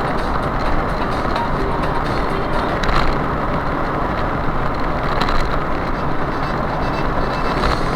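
Motorcycle moving at speed: a steady rush of wind and road noise.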